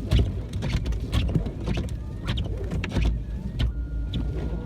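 Car cabin noise in slow traffic: a steady low rumble from the idling car, with irregular clicks and knocks. A faint steady high tone comes in near the end.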